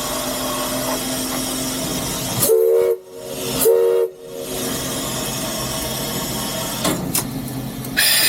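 Steam whistle of the three-truck Shay locomotive J. Niles Lumber #5 sounding two short blasts about a second apart. Behind it runs the locomotive's steady steam hiss, heard from inside the cab.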